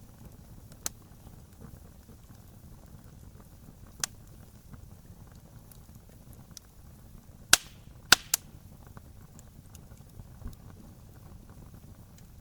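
Wood fire burning with a low steady rumble and occasional sharp pops, the loudest a cluster of three about two-thirds of the way through.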